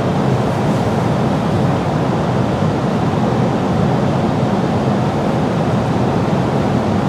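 Steady low rumble and hiss of cabin noise inside an Aichi Loop Railway 2000 series electric train car.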